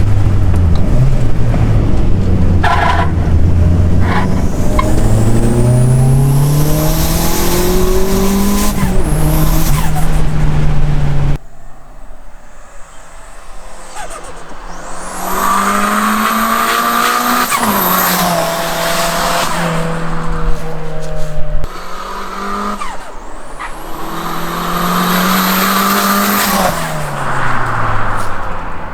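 Toyota Starlet Glanza V's small turbocharged four-cylinder engine under hard acceleration, the revs climbing several times and dropping sharply at each gear change.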